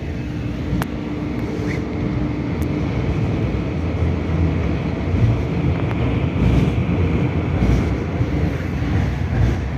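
Interior noise of a moving 81-740.1 metro train: a loud, steady rumble of wheels and running gear that grows slowly louder, with a faint steady whine in the first few seconds.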